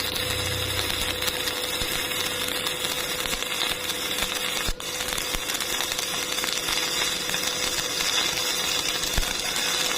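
Stick welding arc crackling and sizzling steadily, breaking off for an instant a little before the middle.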